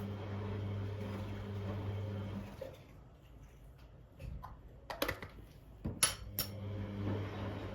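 Steady low electrical hum that cuts out about two and a half seconds in, then a handful of sharp clinks and clatters of kitchenware being handled, the loudest about five and six seconds in; the hum comes back near the end.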